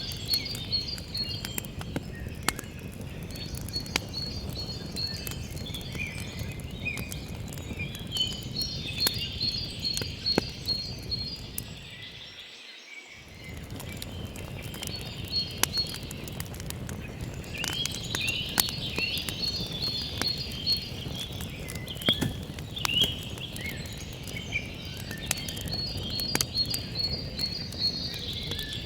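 Campfire crackling with frequent sharp pops over a low steady rumble, while songbirds chirp and one bird repeats a rapid high trill several times. Near the middle the low rumble drops out for about a second.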